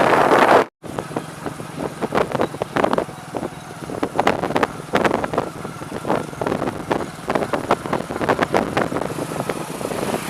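TVS Apache motorcycle under way, its engine running while wind buffets the microphone in irregular gusts. The sound cuts out for an instant just under a second in.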